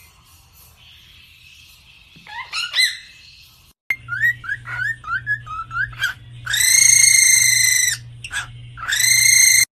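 Bird calls: a few rising calls, then, after an abrupt cut, a quick run of short upward chirps followed by two long, even whistled calls.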